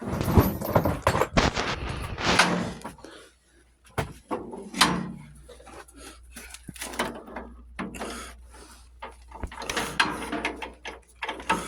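Metal tools clattering and knocking as someone rummages through a toolbox for a socket. A dense burst of clatter comes in the first three seconds, then scattered knocks and clicks.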